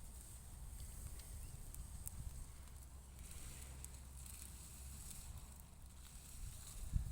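Cattle grazing: faint tearing and chewing of grass over a steady low rumble, with one low thump near the end.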